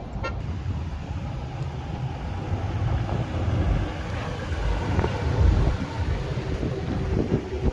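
Car engines running, a steady low rumble with traffic noise.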